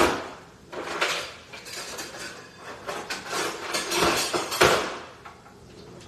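A utensil knocking and scraping against a cooking pot: a sharp clank at the start, then a run of irregular scrapes and clatters that stop about five seconds in.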